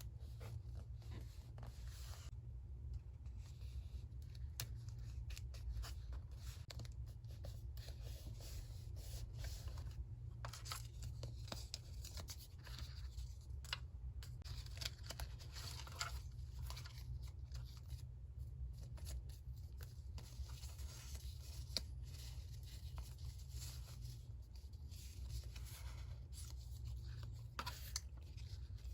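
Paper being torn and handled for a collage, in many short crackly strokes over a steady low hum.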